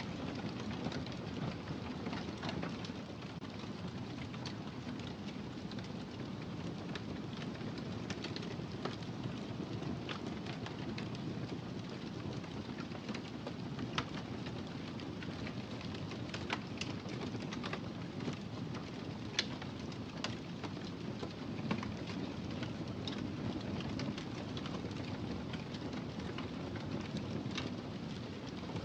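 Wood fire crackling in a fireplace: a steady low rush of burning with scattered sharp pops and snaps, a few louder ones about halfway through.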